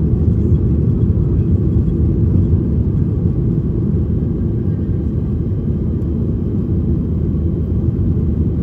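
Steady low rumble of jet airliner cabin noise, the engines and air noise heard from inside the cabin, holding even throughout.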